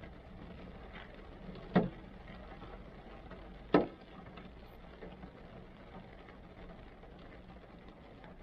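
Rain falling on a car, heard from inside the cabin as a steady patter, with two sharp, loud thumps about two seconds apart, the first about two seconds in.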